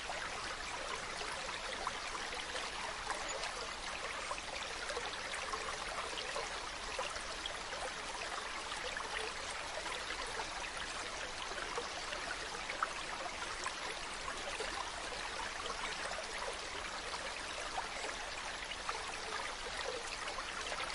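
Mountain stream running over rocks: a steady rush of water dotted with many small splashes and trickles.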